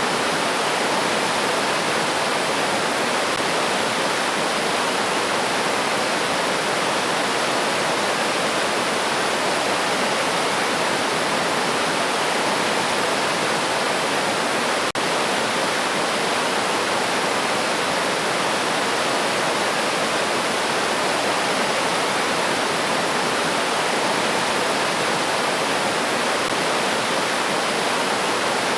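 River water rushing steadily over rocks, a constant even rush with no birdsong heard.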